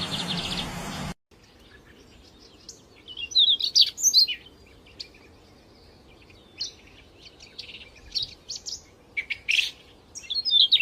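Small wild songbirds chirping and trilling in short, high-pitched clusters over a quiet background. A louder, noisier stretch with a fast trill cuts off suddenly about a second in.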